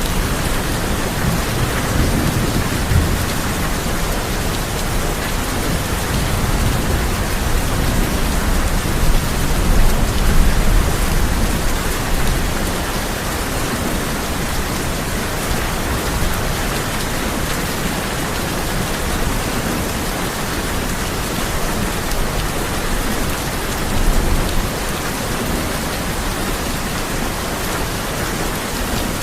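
Heavy rain falling steadily on a tin roof, an even hiss, with low thunder rumbling that swells in the first few seconds and again about ten seconds in.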